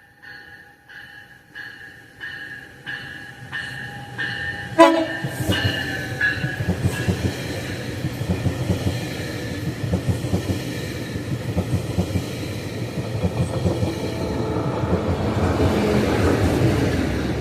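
Grade-crossing bell ringing about one and a half strikes a second. A passenger train then passes with a sharp bang about five seconds in, its wheels rumbling and clattering over the rails and growing louder toward the end.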